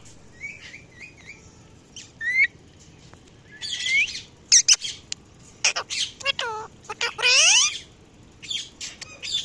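A parrot calling: a run of short, faint chirps, then louder, longer screeching calls from a few seconds in, several of them sweeping down and then up in pitch.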